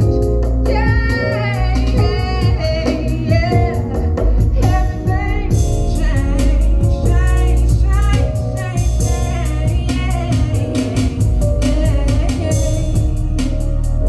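A woman singing an R&B song live over instrumental accompaniment with heavy bass and a steady beat.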